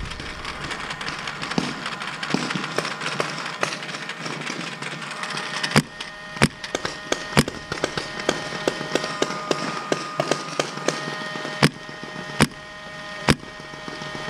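Paintball markers firing: scattered sharp pops of varying loudness over a steady hiss, with a few loud close shots in the second half.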